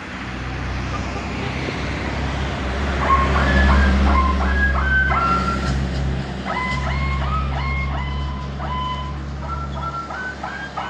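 A truck's diesel engine running steadily, with a truck's musical reversing alarm playing a stepping electronic tune of short high notes over it from about three seconds in.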